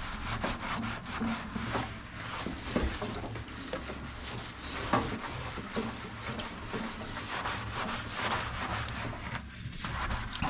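Toothbrush scrubbing a plastic washing-machine part in quick, irregular rubbing strokes, with a few sharper ticks. A low steady hum sits underneath.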